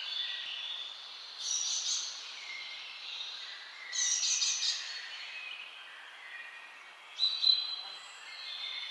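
Several wild birds calling and singing over a faint steady hiss, with louder chirping phrases about a second and a half in, around four seconds, and shortly after seven seconds.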